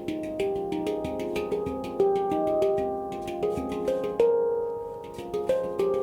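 F minor handpan by Oasis Sound Sculpture played by hand: a quick run of struck notes ringing over one another, with a few louder accented strikes.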